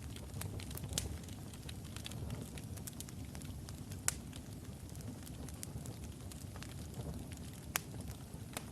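Wood logs burning in a fireplace: a steady low rumble of the flames with frequent sharp crackles and pops, a few louder ones standing out.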